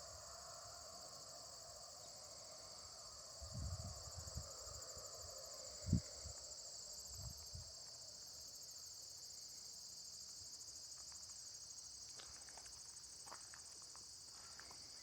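Steady high-pitched chorus of crickets trilling. A lower hum fades out about halfway through. A few low thumps, the loudest about six seconds in, and faint clicks come near the end.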